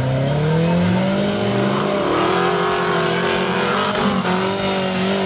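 Engine of a tube-frame off-road buggy revving under load, its pitch rising over the first two seconds and then holding with small wavers.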